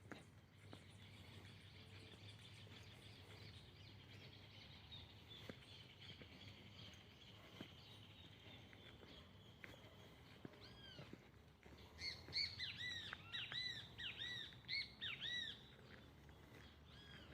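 Birds calling: a faint high chirping runs in the background. About ten seconds in, a bird gives a quick series of loud, arched, whistled calls that lasts about four seconds.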